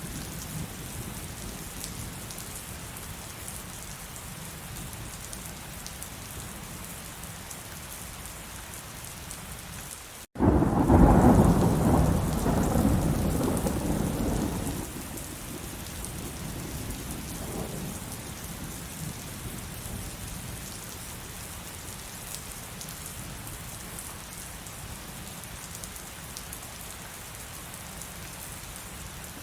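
Steady heavy rain, with a loud thunderclap that breaks in sharply about a third of the way through and rumbles for about four seconds before fading back under the rain.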